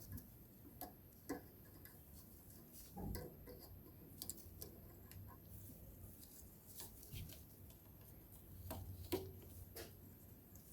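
Faint, scattered clicks and light taps of small metal parts being handled, at irregular intervals, as the governor spring and linkage are worked off a lawnmower engine, over a low steady hum.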